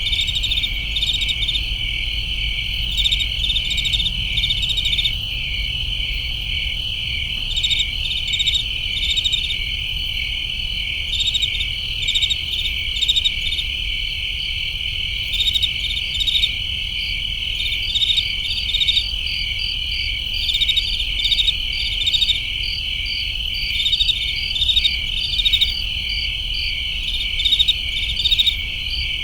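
A chorus of crickets chirping: a steady pulsing trill, with louder chirps coming in clusters every second or so, over a low steady rumble.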